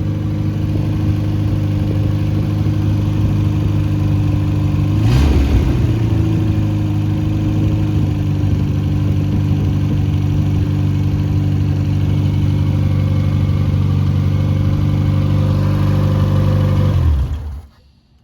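Freshly rebuilt MG Midget 1500 four-cylinder engine with a balanced rotating assembly, running loud on an open exhaust with no muffler. It idles steadily with a brief blip of the throttle about five seconds in, then is switched off and dies away near the end.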